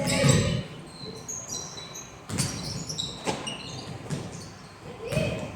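Basketball shoes squeaking on a gym floor in many short, high chirps, with a couple of sharp knocks a little past two and three seconds in.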